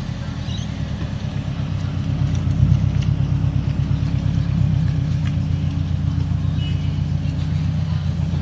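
Toyota 86 GT's 2.0-litre flat-four engine running, a steady low exhaust note with a rapid even pulse.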